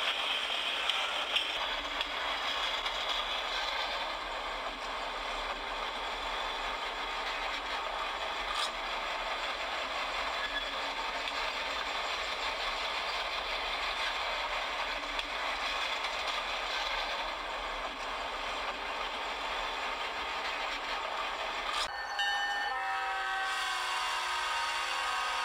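Steady train running noise, an even rumble and rattle without a break. About 22 seconds in it cuts abruptly to a held chord of several steady tones.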